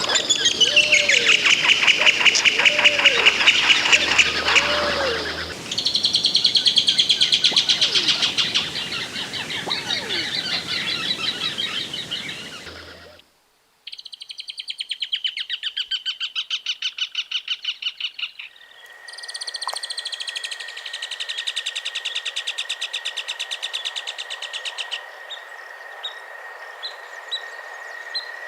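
Birds calling in fast, chattering runs of repeated high notes, in several separate stretches that change abruptly with a brief cut-out about halfway. In the last third a steady high whine runs underneath the calls.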